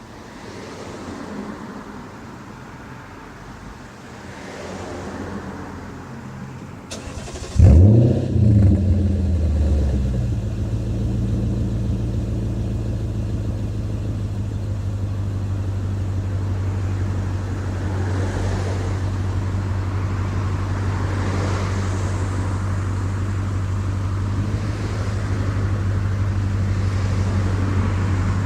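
Lexus IS F's 5.0-litre V8 through a Hayward & Scott exhaust with X-pipe starting warm: a brief crank about seven seconds in, the engine catching with a short rev flare, then settling into a steady, deep idle rumble.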